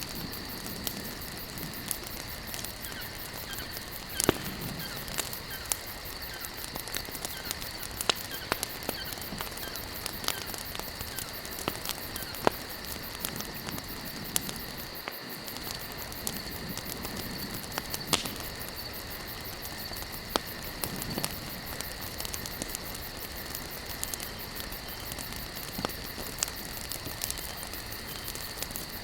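Wood campfire burning, with irregular sharp crackles and pops over a steady hiss; a couple of pops stand out louder. A faint steady high-pitched drone runs beneath.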